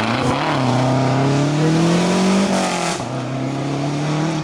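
Rally car engine under hard acceleration, its pitch climbing, breaking off briefly about two and a half seconds in at an upshift, then climbing again.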